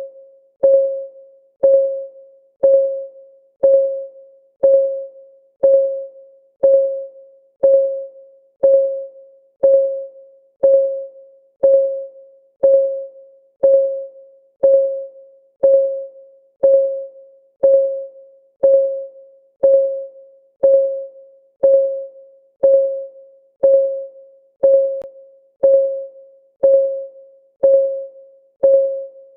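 Countdown timer's clock ticking sound: a short, pitched tick once a second, each dying away quickly, steady and even.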